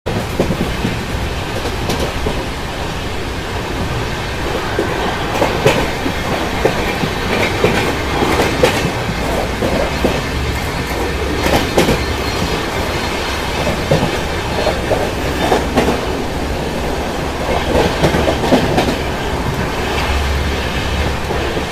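Express train's coaches running at speed, heard from the side of the moving coach: a steady rumble of wheels on rail, broken by irregular sharp clacks as the wheels pass over rail joints and points.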